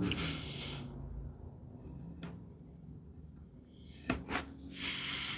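A few short scratching strokes on wood, with light clicks and knocks between them: a tenon being marked out on a workbench.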